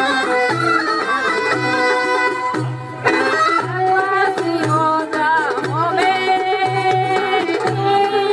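Bulgarian folk dance music for a pravo horo: an instrumental band with a steady low drum beat under an ornamented, bending melody line, briefly thinning out about three seconds in before coming back in full.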